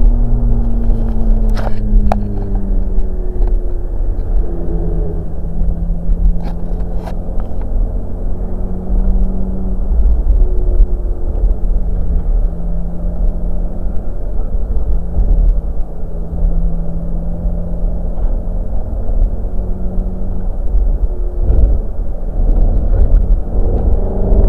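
Ferrari F430 Spider's V8 engine heard from the open-top cabin while driving: the engine note sags in pitch over the first few seconds, holds steady for most of the time, then climbs as it accelerates near the end. A heavy low rumble of wind and road noise runs underneath.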